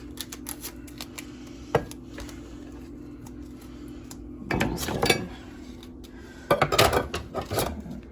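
Kitchen clatter of a knife and dishes on a counter while cutting and handling wax-coated cheese: a light click about two seconds in, then two short bursts of scraping and clinking around four and a half and six and a half seconds in, over a faint steady hum.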